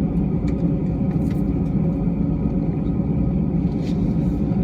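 Airbus A320 jet airliner's steady low rumble, with a few faint light clicks and rattles over it.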